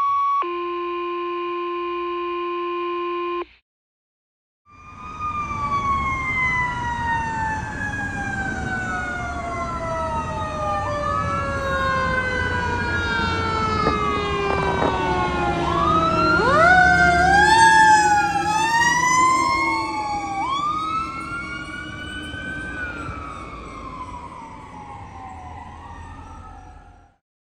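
Fire truck sirens: a mechanical Federal Q siren winding down in one long falling pitch, overlapped by electronic sirens wailing up and down and yelping, loudest about two-thirds of the way through and fading near the end. A short steady electronic tone sounds first, then a second of silence before the sirens start.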